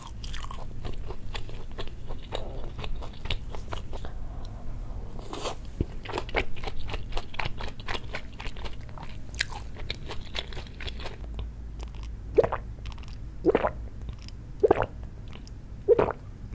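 Close-up eating sounds: stir-fried kimchi and tofu being chewed, with crunching and small wet mouth clicks. In the last few seconds there are several separate gulps, about a second apart, as makgeolli is drunk from a brass cup.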